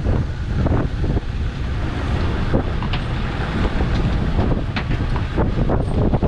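Wind buffeting the microphone on a small fishing boat at sea, a steady low rumble with a few scattered clicks and knocks.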